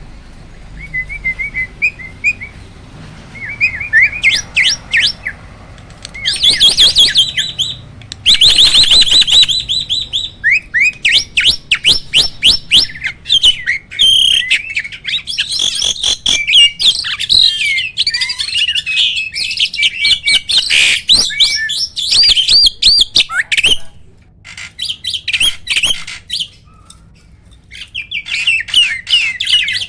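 Hybrid starling (Asian pied starling crossed with black-winged myna) singing loudly: a varied run of chirps, whistles and fast rolling trills in bursts, pausing for a few seconds before a last burst near the end.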